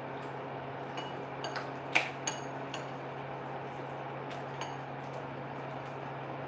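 A few light, briefly ringing clinks of hard objects, the loudest about two seconds in, over a steady background hum.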